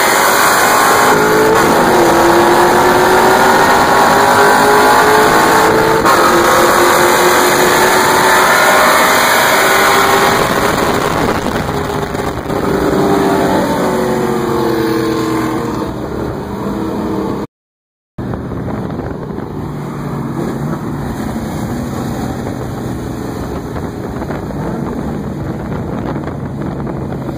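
Camaro and Pontiac Trans Am V8 engines pulling hard side by side, heard from inside the Camaro, the engine note climbing under heavy wind and road rush. After about twelve seconds they ease off to a steadier, quieter cruise. The sound drops out for under a second about two-thirds of the way through.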